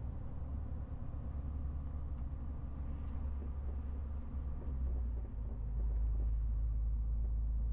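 MAN TGX 18.470 truck on the move: a steady low engine and road rumble. The rumble grows louder and deeper about five and a half seconds in.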